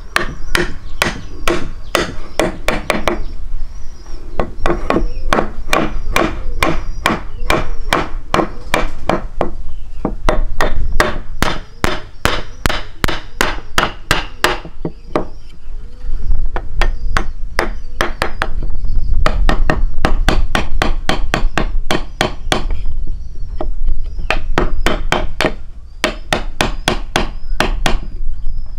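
Rapid, repeated knocks or strikes, about four to five a second, in long runs with short pauses.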